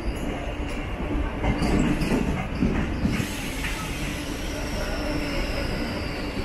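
Mumbai suburban EMU train running and slowing into a station, heard from inside the coach: low rumble with wheel clatter and knocks, and from about three seconds in a high whine that falls steadily in pitch as the train decelerates.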